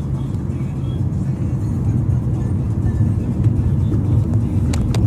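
Steady low rumble of a car driving, with a couple of sharp clicks near the end.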